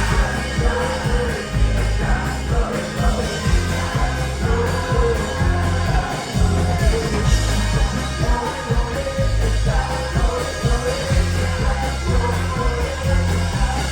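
Live rock band playing with a lead vocal sung over it and a heavy bass and drum beat, recorded from the audience.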